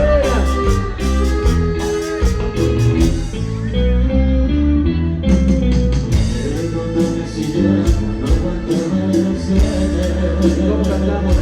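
Live band playing an instrumental passage with a steady bass and an even beat of high percussion. The high percussion drops out for about two seconds a few seconds in, then comes back.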